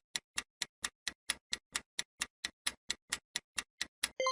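Quiz countdown-timer sound effect: clock-like ticking, about four to five ticks a second, ending in a bell-like ding near the end that signals time is up.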